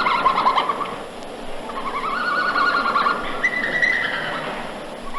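A songbird singing fast trilled phrases, one after another with short gaps between them.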